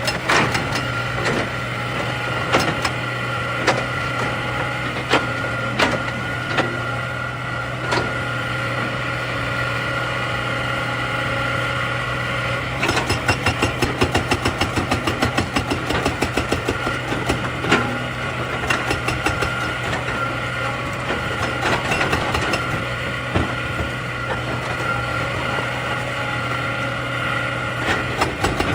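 Excavator's diesel engine running steadily, with scattered sharp knocks and clanks, and a few seconds of rapid clattering about halfway through.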